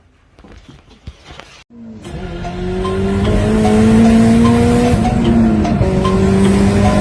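A car engine running hard under acceleration. It starts suddenly about two seconds in, its pitch climbs slowly, dips briefly about three seconds later, then climbs again.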